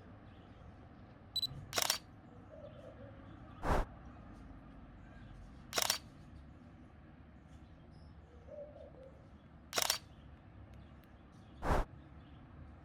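Single-lens reflex camera shutter firing five single shots, each a sharp click, a few seconds apart.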